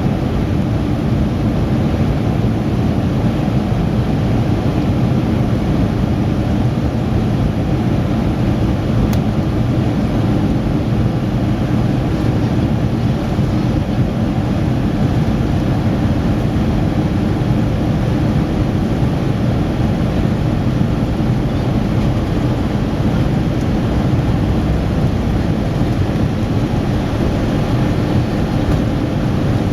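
Boeing 737 jet engines and airflow heard inside the cabin during the takeoff climb: a loud, steady, low-heavy noise with faint steady tones and no change in level.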